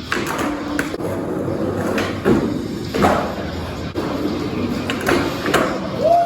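Skateboard wheels rolling on a hard floor, with several sharp knocks and clacks as the board and trucks hit a small homemade box.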